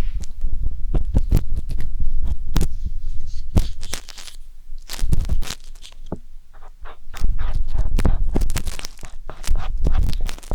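Wooden skewer scraping and rubbing inside the silicone ear of a 3Dio binaural microphone: close, irregular scratching and crackling with low rumbles, quieter for a few seconds in the middle.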